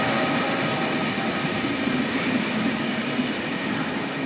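Double-deck passenger coaches of a Trenitalia regional train rolling past close by, a steady rumble of wheels on rail that slowly fades.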